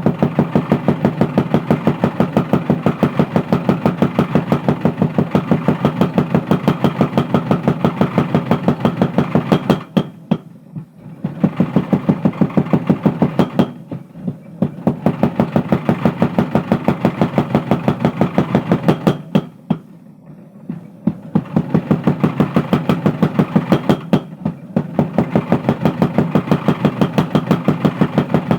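Mechanical power hammer striking hot steel in a fast, even rhythm of about five blows a second, stopping briefly four times between runs of blows.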